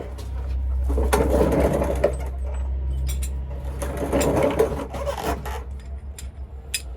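A power tool running in two bursts, about a second in and again around four seconds in, over a steady low hum, with a few sharp clicks near the end.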